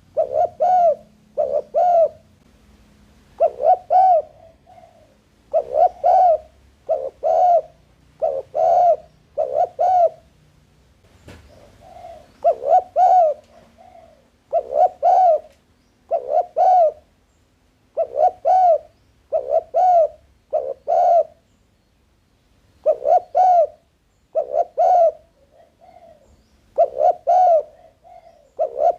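Spotted dove cooing: repeated phrases of two or three mellow coos, one phrase every second or two, with a couple of brief pauses.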